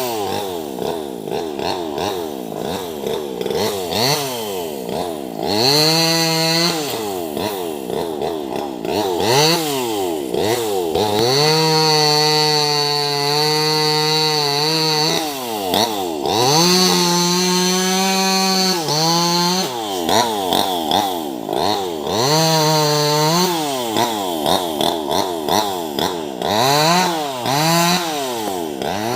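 Small two-stroke 258 top-handle chainsaw cutting tree branches. It revs up and down over and over, with quick throttle blips between cuts, and holds steady at full throttle for several seconds twice: about eleven and about seventeen seconds in.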